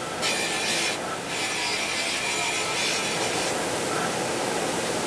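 Steady scrubbing and rubbing of small dash vents being cleaned, with a brighter, hissier stroke coming and going every second or two.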